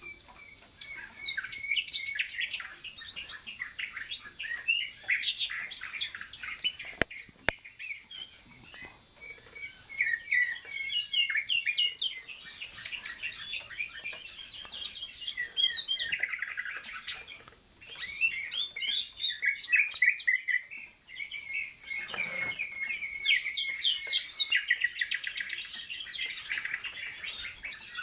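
Canaries singing: long runs of rapid trills and chirps, broken by brief pauses between phrases.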